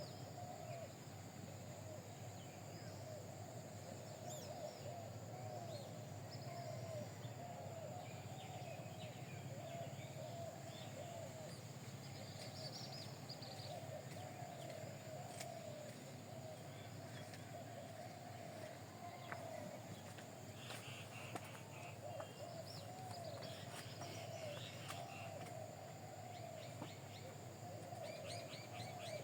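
Birds calling: a continuous wavering, warbling chorus with scattered higher short chirps over it.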